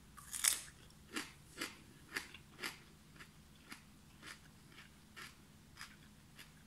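A bite into a slice of raw Richmond Green Apple cucumber, then chewing with mouth-close crunches, about two a second, growing fainter. The flesh is very crunchy.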